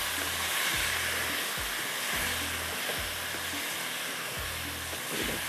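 Potatoes and peas sizzling in hot oil in a wok as they are stir-fried with a spatula, a steady hiss, with soft background music underneath.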